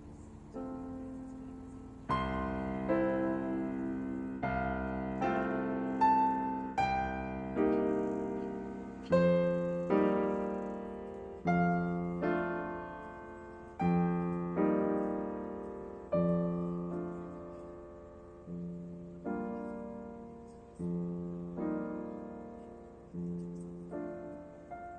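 Solo piano music playing slow chords and melody notes that each strike and fade away.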